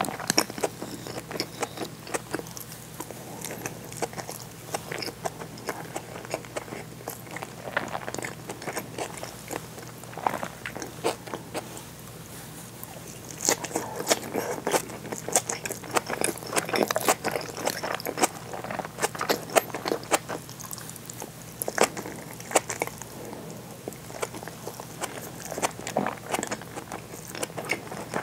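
Close-miked mouth sounds of a person chewing seared bonito with rice: a stream of wet smacks and short sharp clicks. The chewing gets busier and louder about halfway through.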